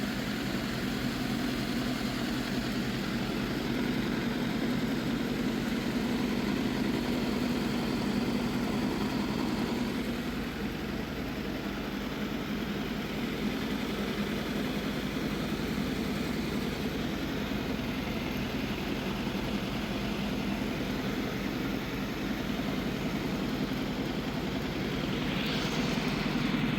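An engine-driven machine running steadily, with a constant low drone. A short hiss swells up near the end.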